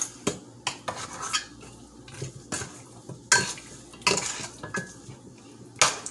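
A utensil scraping and clinking against the inner pot of an Instant Pot as seasoned raw chicken is stirred, in irregular strokes.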